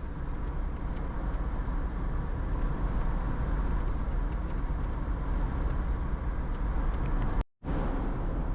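Steady road and engine rumble inside a moving vehicle's cabin, heaviest in the low end. The sound drops out completely for a split second about seven and a half seconds in.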